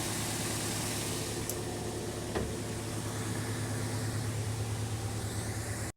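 Toyota MR-S's 1.8-litre four-cylinder engine idling steadily, a stable, even idle. The sound cuts off abruptly just before the end.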